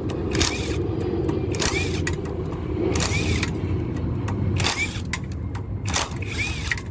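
Steady low rumble of a running vehicle engine, with a short rising-and-falling chirp repeating about every one and a half seconds.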